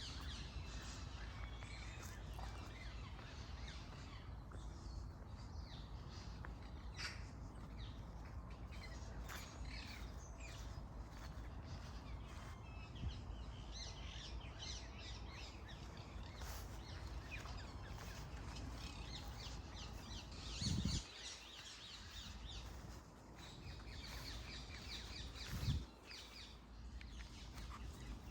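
Small birds chirping and singing on and off over a steady low background rumble, with two brief low thumps about 21 and 26 seconds in.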